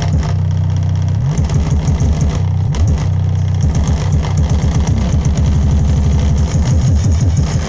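Bass-heavy music played loud through a homemade speaker cooler with a 10-inch speaker. Deep bass notes pulse in a rhythm, with several sliding bass notes.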